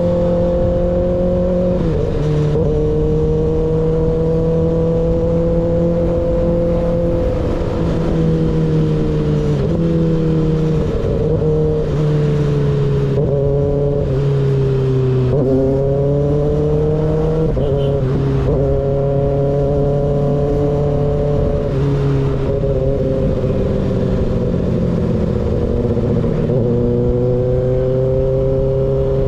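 Motorcycle engine running through an unbaffled M4 GP19 slip-on exhaust, heard from on the bike while riding. The engine note holds steady for stretches, then steps down and up several times with throttle and gear changes, and rises in a smooth climb about halfway through.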